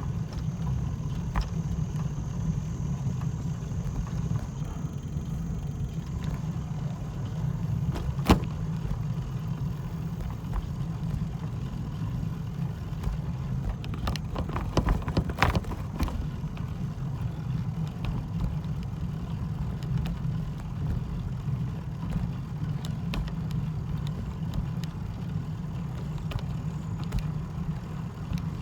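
Steady low vehicle rumble, with a single sharp click about eight seconds in and a cluster of clicks and knocks about halfway through.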